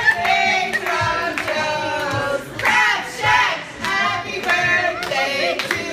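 A group of voices singing together, with hands clapping along.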